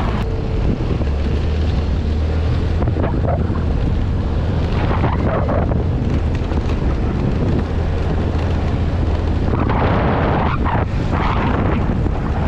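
Loud wind buffeting the microphone during a ride, over a steady low drone.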